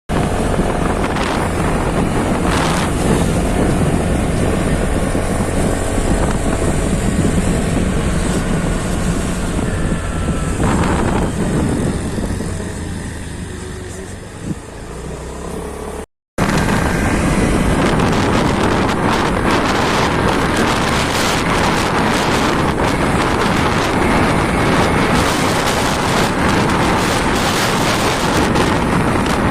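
Wind rushing over the microphone with road and engine noise from a moving motorcycle, broken by a brief cut to silence about halfway through, after which it comes back louder.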